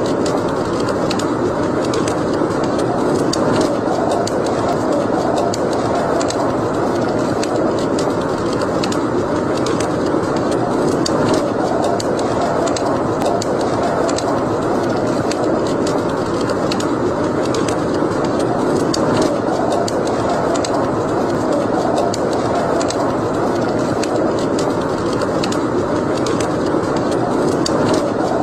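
Wood fire burning in a fireplace: a steady rush of noise dotted with frequent small crackles and pops.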